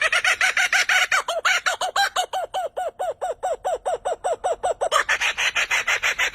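A bird calling in a fast, even run of short repeated notes, about five a second, each note rising and falling in pitch; the notes turn harsher about five seconds in.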